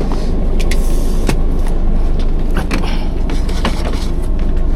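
Steady low rumble inside a sleeper train carriage, with scattered clicks and knocks.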